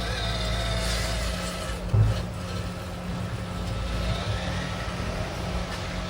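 Mini RC crawler's small electric motor and gears whining as it drives, the pitch wavering with the throttle, with one knock about two seconds in.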